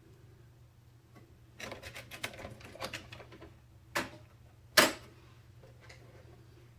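Small clicks and rattles of computer parts being handled during a PC build, followed by two sharp clicks about a second apart, the second the loudest.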